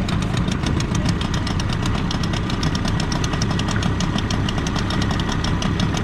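Boat engine idling steadily with a fast, even pulse as the boat creeps in at low speed to tie up.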